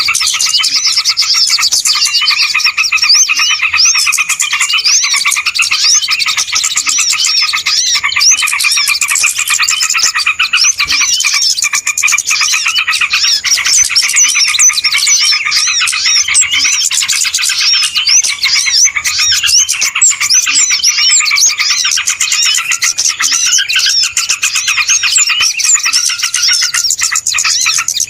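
A dense chorus of many small birds chirping and twittering at once, a continuous busy chatter of quick high notes with no pause. It is a bird-lure (pikat) recording of noisy small birds, the kind played to draw wild birds in.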